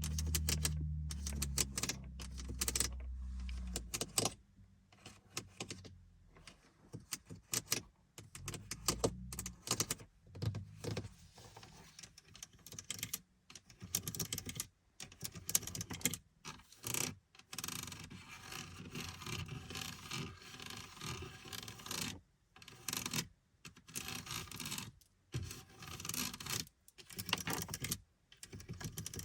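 Quick irregular tapping and scratching on car interior surfaces, in dense clusters of sharp taps with a longer stretch of scratching past the middle. A low rumble sits under the first few seconds.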